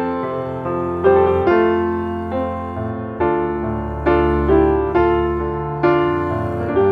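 Background piano music: slow, gentle notes and chords struck about once a second, each fading before the next.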